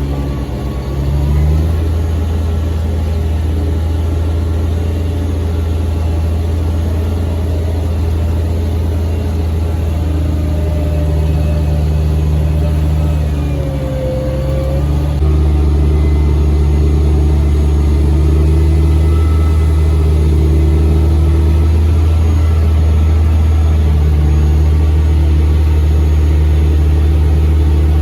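Farm tractor engine running steadily under way while pulling a grain cart. It grows louder about a second in and its note steps up about halfway through.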